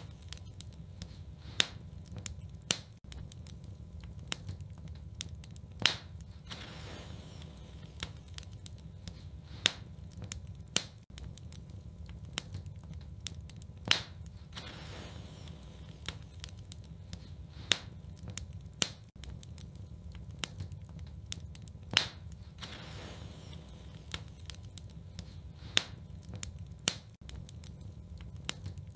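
Wood fire burning in a fireplace: irregular sharp crackles and pops, a few much louder than the rest, over a low steady rumble of the flames.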